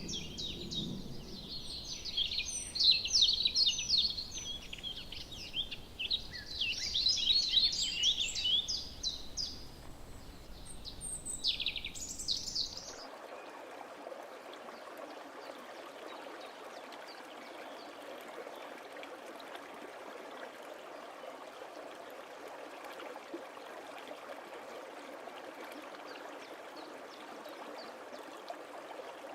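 Birds calling in quick, busy chirps and trills for about the first half. Then a sudden cut to the steady rush of a running stream.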